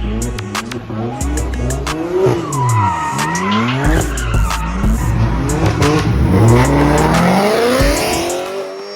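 Car engines revving hard, their pitch sweeping up and down again and again, with tyres squealing. Deep bass music runs underneath and drops out now and then.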